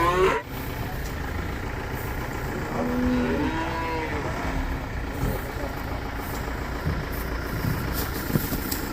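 A cow lowing once, about three seconds in: one drawn-out call lasting about a second and a half, over a steady low rumble.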